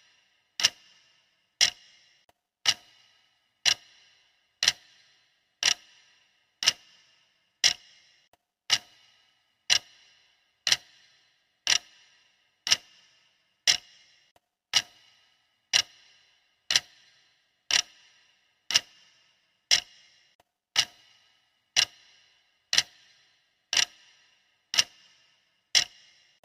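Clock ticking steadily, about one tick a second, each tick a sharp click with a brief bright ring.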